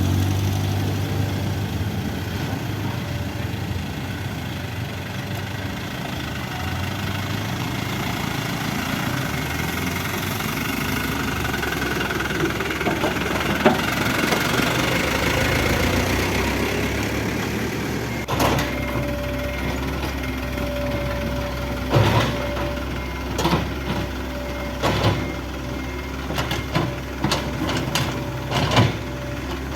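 Hydraulic excavator's diesel engine running steadily, with a swell of grinding noise around the middle. A series of sharp knocks and clatters follows in the second half, like the machine breaking and moving debris.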